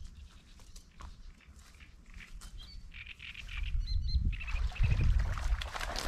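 Small birds chirping and calling in short phrases, clearest between about two and four seconds in, over a low rumble. A louder rustling noise starts about four seconds in.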